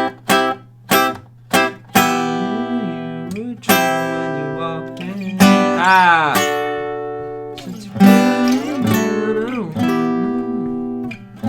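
Acoustic guitar chords: a run of short, muted strums for the first couple of seconds, then longer chords that ring on, with a few sliding shifts in pitch between them.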